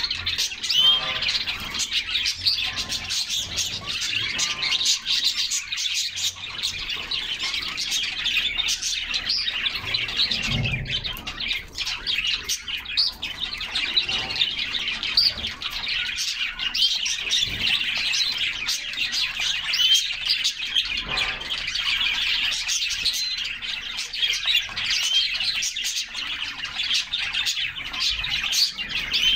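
Several canaries singing together, a dense, unbroken chatter of chirps, twitters and trills.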